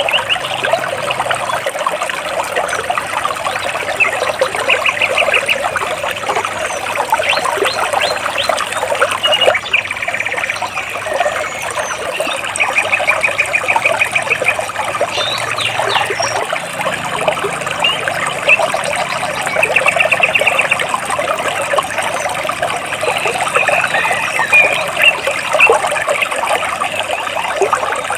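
A stream trickling and splashing over rocks, steady throughout, with a bird giving short, fast trills of rapid repeated notes several times.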